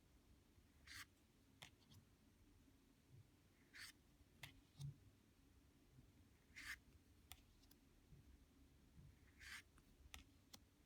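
Lenormand cards being turned over one by one, faint: four short papery swishes, each followed by a light tap as the card is set down.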